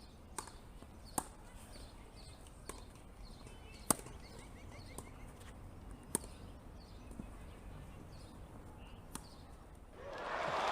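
Tennis rally on a grass court: rackets striking the ball in sharp pops a second or two apart, the sharpest about four seconds in, with birds chirping faintly. Applause rises near the end.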